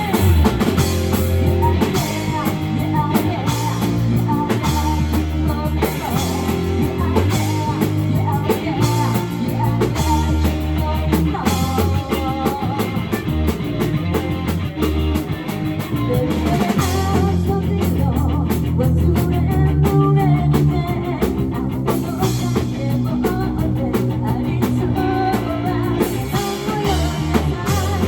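Live rock band playing loud and steady, with electric guitar, bass and a drum kit, and a sung or lead melody over the top.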